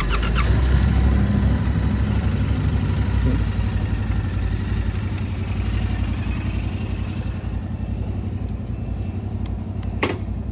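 Yamaha MT-09's inline three-cylinder engine running steadily at a low, even speed, with a few light ticks at the start and a sharp click about ten seconds in.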